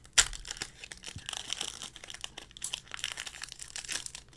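Foil wrapper of a Pokémon card booster pack crinkling as it is handled and torn open by hand, a dense crackling with one sharp crackle just after the start.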